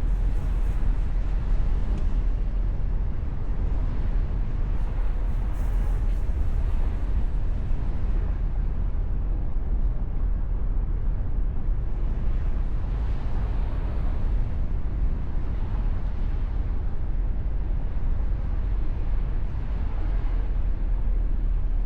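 Steady driving noise of a Mustang convertible on the move: a continuous deep rumble of wind and road noise with no separate events.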